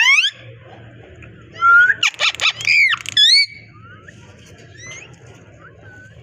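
Parrot calling and whistling: a quick rising whistle at the start, then about two seconds in a loud stretch of noisy calls and bending whistles lasting under two seconds, followed by a few faint short whistles.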